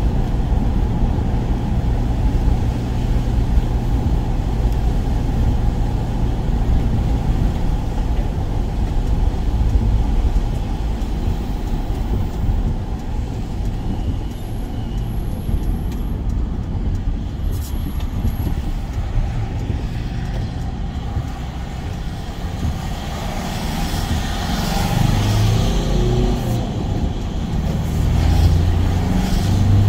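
Van driving: steady engine and road rumble, with the engine note rising and shifting in the last few seconds.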